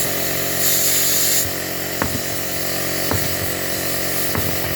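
Workshop air compressor running steadily while air is fed to a tyre being seated on its rim, with a burst of air hiss about a second in and three light knocks.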